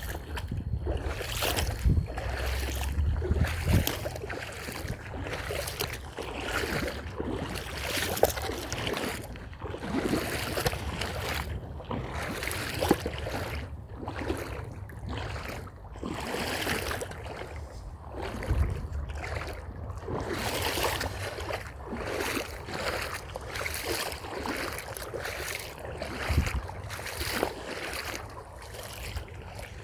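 Footsteps walking at a steady pace, each step a short crunch, over a low wind rumble on the microphone.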